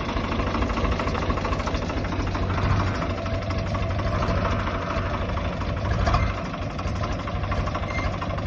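Swaraj 855 tractor's three-cylinder diesel engine running steadily at low speed, with a brief rise in loudness about six seconds in.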